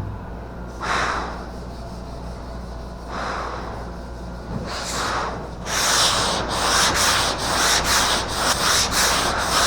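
Sandpaper on a hand sanding block rasping over the primed roof of a car: a few single strokes at first, then quick back-and-forth strokes, about two or three a second, from about six seconds in. It is 180-grit paper, cutting down primer and orange peel.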